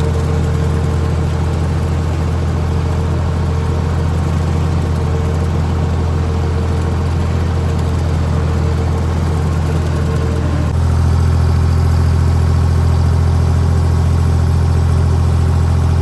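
Tractor engine running steadily at a constant speed. About eleven seconds in its tone shifts and it gets a little louder.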